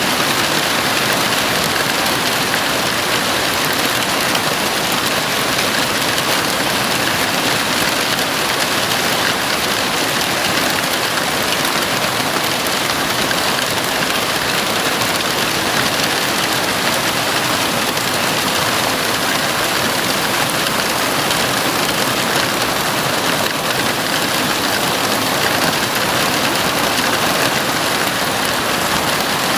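Heavy rain falling on a house roof: a steady, even hiss of rain with no breaks.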